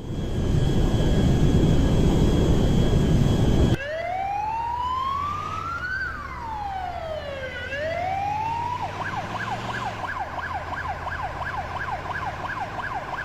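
A loud rumble with a steady high whine, cut off suddenly after about four seconds. Then an emergency vehicle siren sounds a slow rising and falling wail, and switches to a rapid yelp about nine seconds in.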